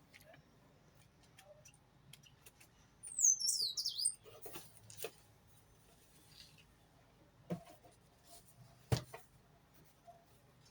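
A bird gives a quick run of high, squeaky chirps that slide downward in pitch about three seconds in. A few scattered clicks and knocks follow.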